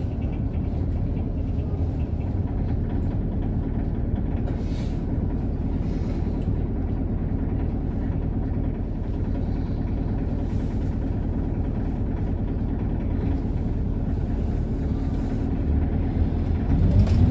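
Isuzu Erga bus's four-cylinder diesel engine idling steadily, heard from inside the cabin, with the loud idling noise that the title calls 異音 (an odd noise). Near the end the engine note starts to rise as the bus pulls away.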